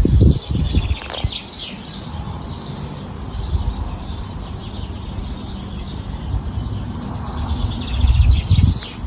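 Small birds chirping repeatedly, with a low rumble at the start and again near the end.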